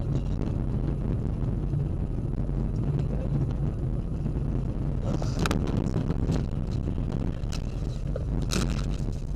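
Car driving, heard from inside the cabin through a dashcam: a steady low engine and road rumble, with a few sharp clicks or knocks, the loudest about five and a half and eight and a half seconds in.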